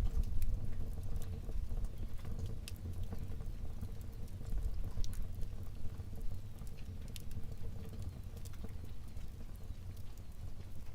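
Wood fire burning in a fireplace: a low steady rumble of flame with scattered sharp crackles and pops.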